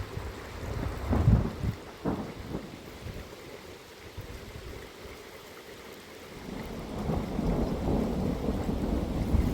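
Heavy rainstorm: steady rain with rolling thunder. A sharp rumble comes about a second in, and a longer rumble swells through the second half.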